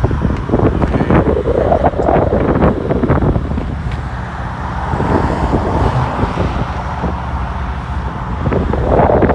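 Wind rumbling on the microphone over passing road traffic, with a couple of swells as vehicles go by.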